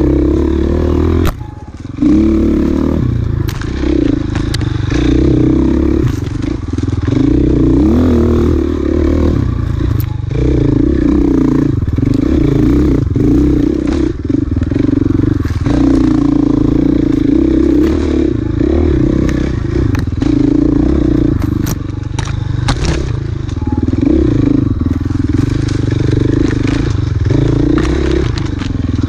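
Enduro dirt bike engine running hard through the whole stretch, its pitch rising and falling as the throttle is worked, with rattling and scraping from the bike over rough trail. The engine note drops out briefly about a second and a half in.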